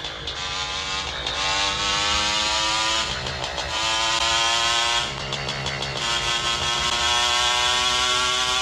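Motorcycle engine under way, its note rising slowly as it accelerates, dipping about five seconds in and climbing again, with wind and road noise.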